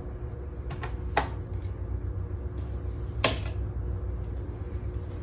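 Tools being handled and set down on a plywood board: three sharp clicks and knocks, the loudest about three seconds in, over a steady low hum.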